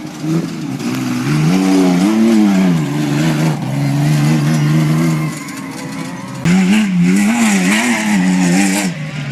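Off-road race truck engines revving hard, their pitch rising and falling with the throttle. A lull comes past the middle, then loud revving starts again suddenly about two-thirds of the way in.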